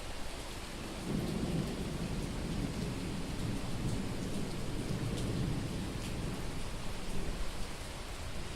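Steady heavy rain with a low rumble of thunder. The rumble rises about a second in, rolls for several seconds and fades away.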